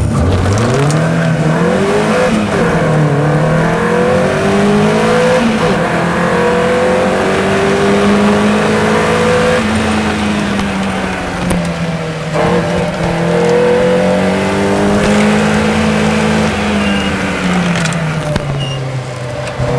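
Racing car engine, a Caterham at race pace. Its pitch climbs under hard acceleration and drops back again and again as the driver lifts and changes gear. There is a short knock about twelve seconds in.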